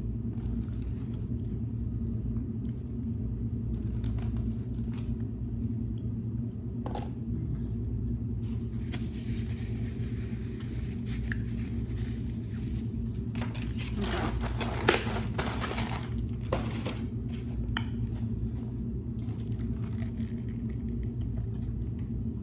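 Eating sounds and takeout food handling: scattered clicks of a spoon and container, with a stretch of crinkling and scraping in the middle, over a steady low hum.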